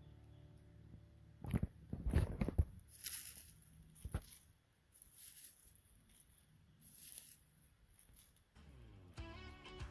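Several sharp knocks and crunches, loudest a couple of seconds in, with short bursts of hissing rustle in between. Background music fades out at the start and comes back near the end.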